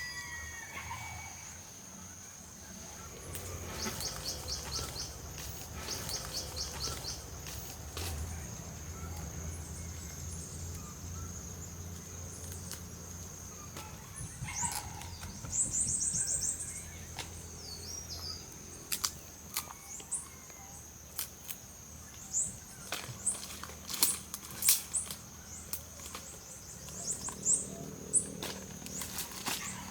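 Forest ambience: a steady high-pitched insect drone, short chirping bird trills a couple of times, and scattered sharp clicks and snaps that become frequent in the second half.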